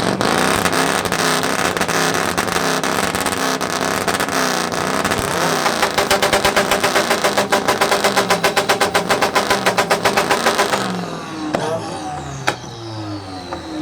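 A loud modified vehicle exhaust being revved hard, the pitch swinging up and down. About five seconds in it holds at the rev limiter and stutters rapidly, about seven or eight pulses a second, for several seconds. It then falls back toward idle with a few sharp pops.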